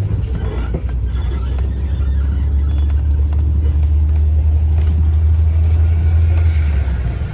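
Low, steady engine rumble that eases off near the end, with faint voices behind it.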